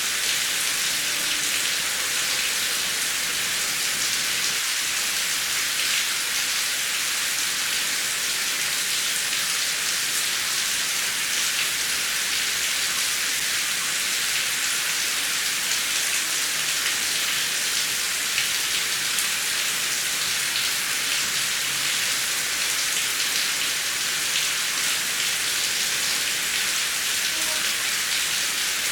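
Heavy rain falling steadily: an even, high hiss with a fine patter of drops and no thunder.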